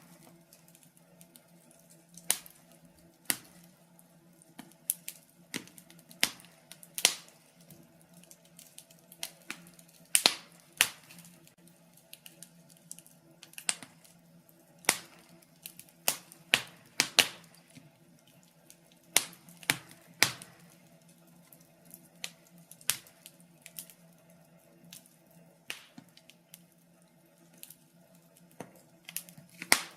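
Wood fire in a fireplace crackling: burning logs give off irregular sharp pops and snaps, some in quick clusters, over a faint steady hum.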